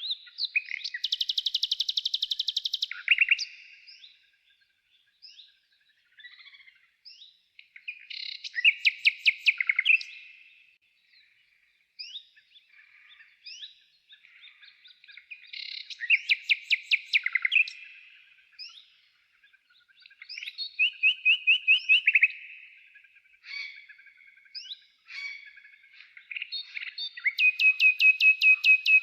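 Songbird singing: a fast trilled song phrase of two to three seconds, repeated five times about every six seconds, with quieter chirps from other birds in between.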